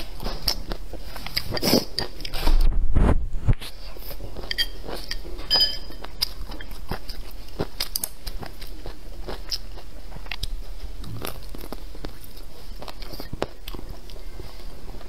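Close-miked eating sounds: a person biting, crunching and chewing rice with diced vegetables and braised chicken, with short clicks of chopsticks on the bowl throughout. A loud low thump comes about three seconds in.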